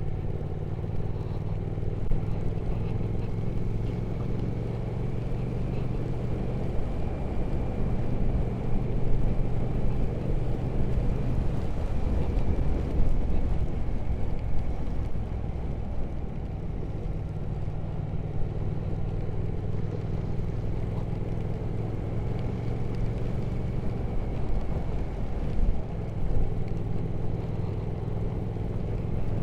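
Triumph Speed Twin 1200's parallel-twin engine running steadily while riding, under wind and road noise. The steady engine note breaks up for a few seconds near the middle, then settles again.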